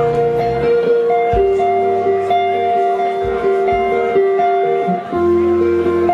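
Live blues-rock band playing an instrumental passage, with guitar holding long sustained notes over the backing.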